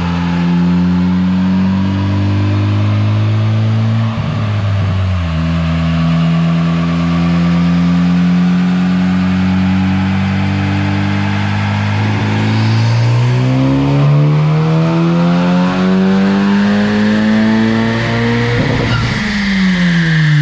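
Honda Civic Type R's turbocharged 2.0-litre four-cylinder engine running on a chassis dyno. It holds a steady speed with a brief dip about four seconds in, then revs up smoothly in a long pull from about twelve seconds in, and the revs fall away sharply near the end as the throttle is lifted.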